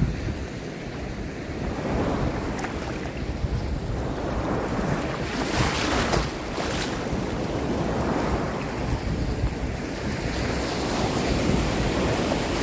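Sea waves washing in, with wind buffeting the microphone as a low rumble; a louder, hissing wash of surf about five and a half seconds in.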